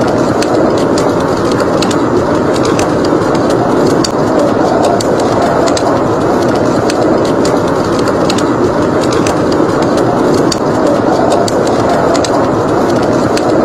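Wood fire crackling, with frequent irregular sharp pops, over a steady rushing blizzard wind.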